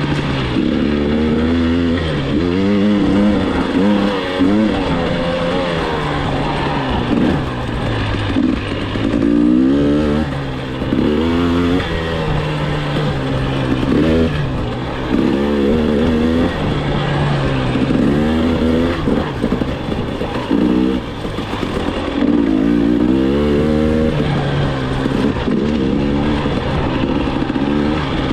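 KTM enduro dirt bike engine on the trail, revving up in repeated climbs and dropping back as the throttle is opened and chopped through the gears, over a steady rush of wind and terrain noise.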